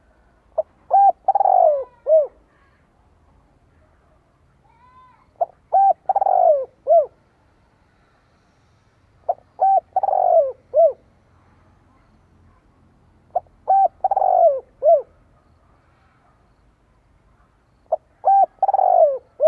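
Spotted dove cooing its song, five phrases about four seconds apart. Each phrase is a couple of short notes, a longer note that falls in pitch, then a final short note. This is the male's crowing call, used as a decoy to draw wild males in to fight.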